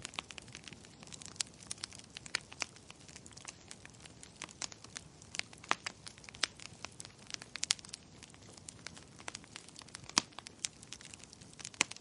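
Wood fire crackling: irregular sharp pops and snaps, a few much louder than the rest, over a soft steady hiss.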